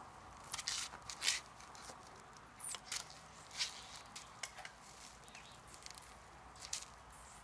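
Faint, irregular rustles and sharp clicks, about a dozen over several seconds, from someone moving about and handling things close to the microphone.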